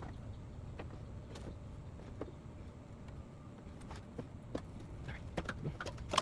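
Scattered light clicks and taps of car parts and hand tools being handled while an engine bay is taken apart, sparse at first and coming more often near the end.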